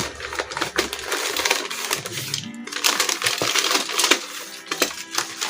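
Crumpled packing newspaper crackling and rustling, with light clicks of plastic toy train cars being handled.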